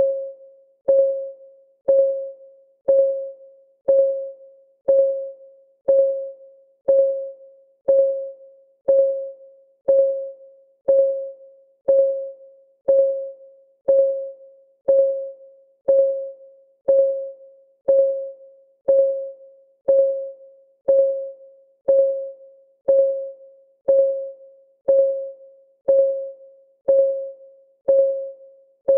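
Countdown timer's clock ticking sound, one tick every second. Each tick is a sharp click with a short, clear pitched tone that quickly fades.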